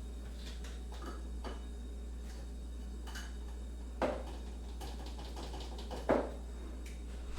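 Kitchen handling sounds: scattered light clicks and clinks of crockery and utensils, with two louder knocks about four and six seconds in, over a steady low hum.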